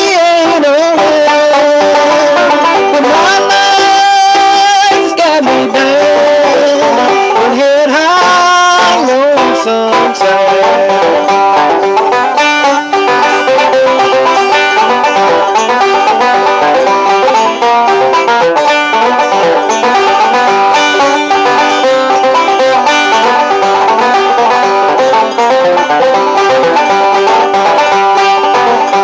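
Bluegrass band playing an instrumental break led by banjo rolls. Sliding, held melody notes fill about the first ten seconds, then a dense stream of quick picked notes takes over.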